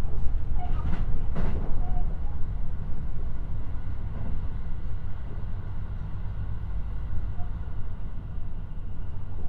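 Running noise of a JR West 223 series electric train heard from inside the passenger car: a steady low rumble of wheels on rail and running gear, with a couple of sharp clicks about a second in.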